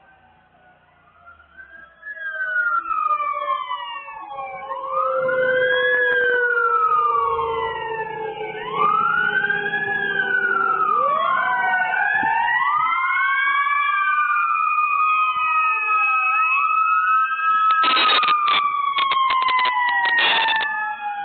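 Several emergency-vehicle sirens wailing at once, their pitches rising and falling out of step with one another, starting about two seconds in. Near the end they are joined by two runs of sharp, rapid pulses.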